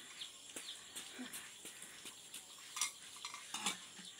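Faint bird chirps with a few light clicks scattered through.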